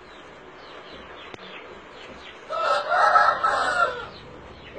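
A rooster crowing once, a single pitched, raspy call about a second and a half long, starting about two and a half seconds in.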